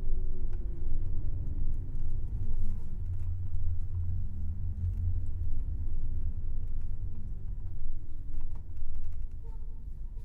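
Airport coach's engine and road rumble heard from inside the cabin, the engine note rising and falling as the bus moves slowly toward its stop, with a few light rattles and clicks.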